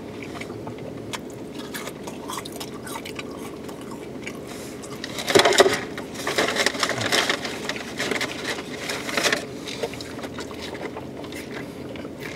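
Two people chewing and eating fast-food burgers and fries, with scattered bites, crunches and the rustle of food. These sounds come in louder, denser clusters about five to nine seconds in, over a steady low hum.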